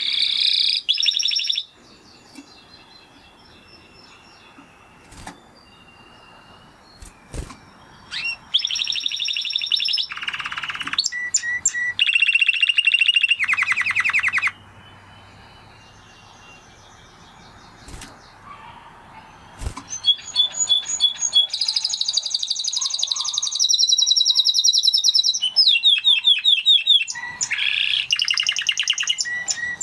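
Spanish Timbrado canary singing in bouts of fast, rolling trills and repeated high notes. The bouts come at the start, from about 8 to 14 seconds, and from about 20 seconds to the end, with short quiet pauses between them.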